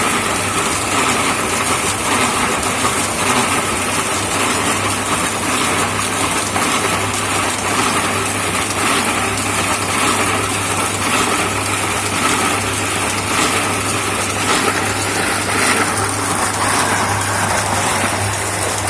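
Homemade concrete mixer running steadily: a constant low motor hum under an even, noisy rumble.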